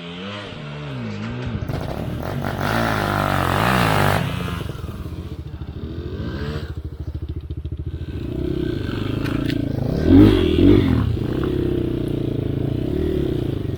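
Enduro dirt bike engine revving up and down as the bike is ridden off-road, with the revs climbing about three seconds in and two brief louder blips near ten seconds.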